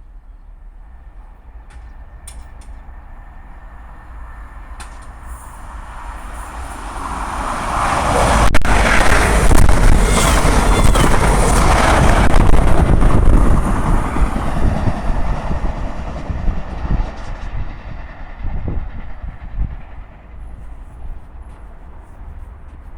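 Intercity 125 high-speed diesel-electric train passing at speed. It builds up as it approaches, is loudest for about six seconds as it rushes by, then fades away.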